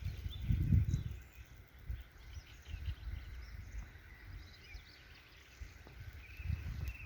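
Small birds chirping and twittering in woodland, with an uneven low rumble on the microphone in the first second and again near the end.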